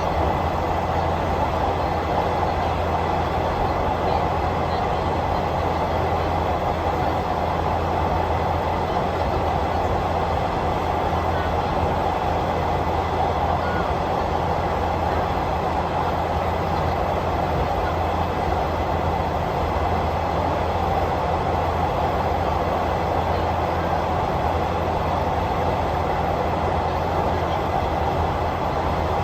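Passenger train running steadily along the track, heard from on board: an even running noise with a low hum underneath.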